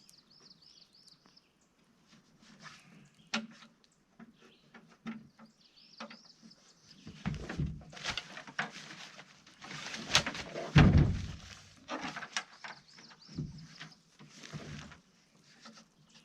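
Handling noise from setting up a truck-bed tent: rustling fabric and straps, with scattered knocks and clunks against the truck bed. The loudest, a heavy thump, comes about eleven seconds in.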